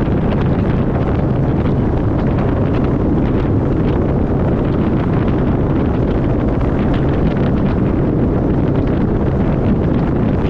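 Loud, steady wind buffeting the microphone over a boat motor running at a constant pitch, as when the boat is under way.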